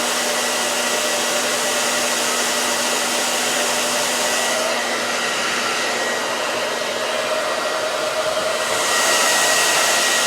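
Hair dryer running steadily, a loud hiss with a constant whine. About halfway through the high part of the hiss dulls for a few seconds, then comes back near the end.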